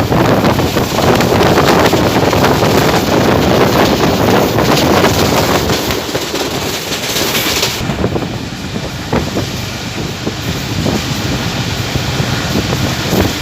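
Train running at speed: a steady rush of wheel-on-rail and wind noise, louder in the first half, with a bright hiss that cuts off sharply about eight seconds in, then somewhat quieter running with scattered clicks.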